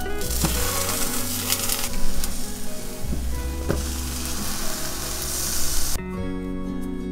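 Eggplant halves sizzling as they fry in a nonstick pan, with a few sharp knocks as a plastic spatula turns them. The sizzle cuts off suddenly about six seconds in.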